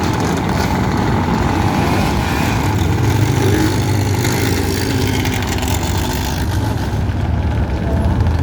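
Motor vehicle engines running in street traffic: a steady low rumble, with an engine note rising and falling a few seconds in.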